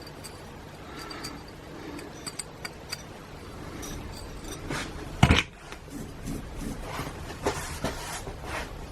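Metal parts and hand tools clicking and clinking as a starter motor is taken apart to get at its carbon brushes, with one sharp knock about five seconds in.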